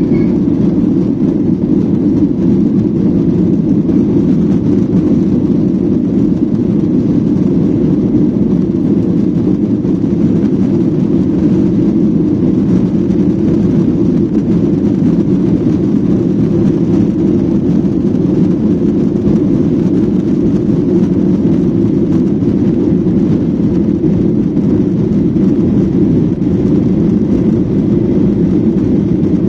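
Steady low drone inside an airliner's passenger cabin: engine and airflow noise, holding level without change.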